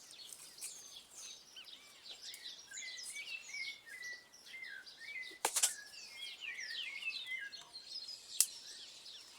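Several small birds chirping and singing at once, a steady stream of short rising and falling chirps. Two sharp pops cut through, the louder about halfway through and a smaller one near the end.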